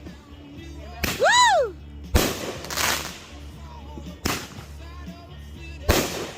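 Consumer fireworks going off in single loud bangs, four of them spaced about a second or two apart. A brief rising-and-falling whistle-like tone follows the first bang.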